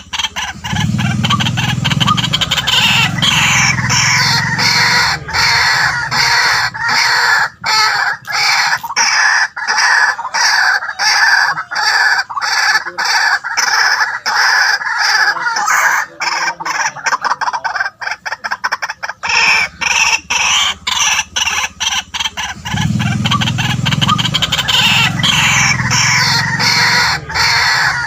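White-breasted waterhen calling loudly: a rapid, continuous series of harsh repeated notes, several a second, with a deeper low layer underneath about a second in and again near the end.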